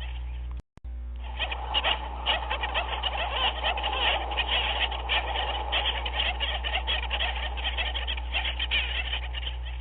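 Dense chorus of many overlapping animal calls, steady throughout, cutting out abruptly for a moment about two-thirds of a second in, where the ambience loop restarts.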